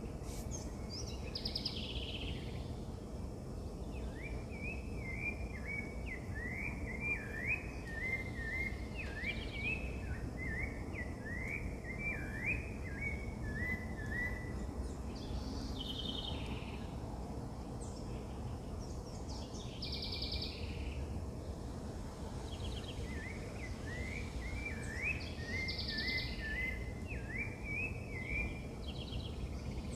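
Birds singing: two long runs of quick rising chirps, with shorter, higher calls every few seconds, over a steady low background rumble.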